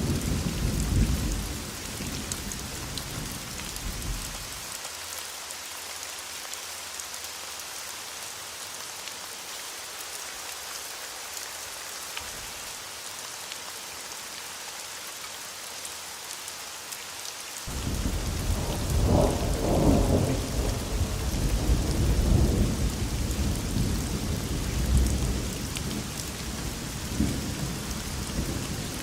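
Steady heavy rain with rolling thunder. A deep rumble dies away in the first few seconds, leaving rain alone, then a long roll of thunder starts abruptly about two-thirds of the way through and rumbles in several swells for about ten seconds.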